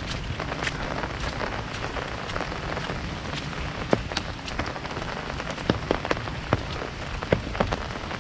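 Heavy rain falling on an umbrella: a steady hiss of rain with frequent, irregular sharp taps from single large drops hitting the canopy.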